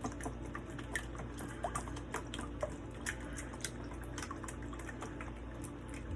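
A whisk beating eggs, water and sauce in a bowl: quick, irregular clicks and light sloshing of the liquid.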